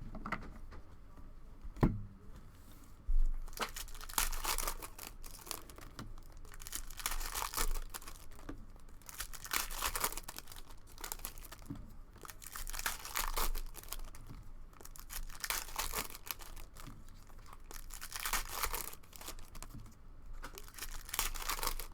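Plastic wrappers of trading-card cello packs being torn open and crinkled, in repeated bursts every few seconds, with one sharp knock about two seconds in.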